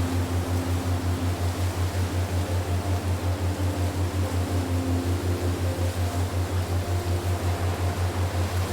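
Relaxation soundtrack: a low hum pulsing evenly about five times a second over a steady wind-like hiss, with faint soft held tones drifting in and out.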